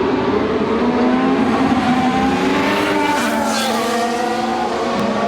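Formula 1 car's turbocharged V6 engine running at high revs. Its pitch shifts and drops about three seconds in, with a brief rushing noise at the same time.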